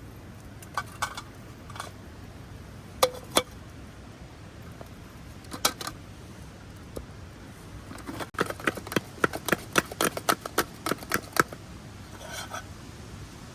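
Sharp taps and clicks, a few scattered at first, then a quick run of about a dozen taps over a few seconds, above a steady low hiss.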